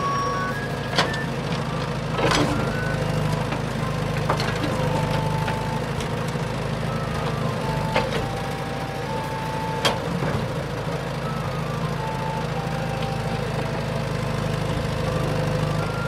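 Toy RC crawler crane running: a steady low electric hum with short electronic beeps at changing pitches. A few sharp clicks stand out, about a second in, near two seconds, and near eight and ten seconds.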